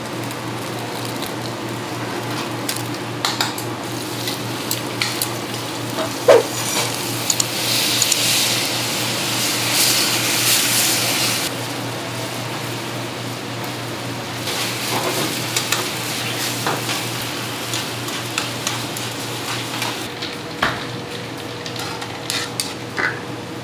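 Sliced onions and meat frying in a pan over a gas burner, a steady sizzle with clinks and scrapes of a utensil against the pan. The sizzle swells loudest about eight to eleven seconds in, and again briefly around fifteen seconds.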